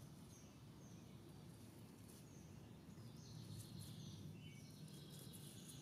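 Near silence: faint background noise with scattered faint, short high bird chirps.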